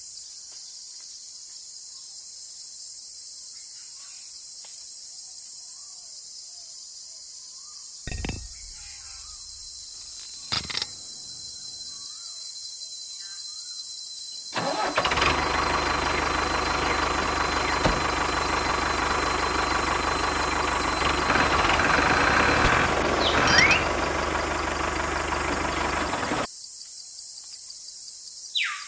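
A motor runs steadily for about twelve seconds, starting and stopping abruptly, over a constant high insect-like hiss. Two short knocks come before it.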